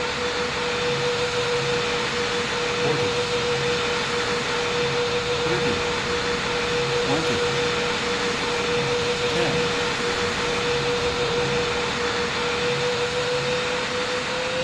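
Boeing 777 jet engine and airflow noise heard inside the cabin: a steady rush with one engine tone that sags a little and then climbs near the end.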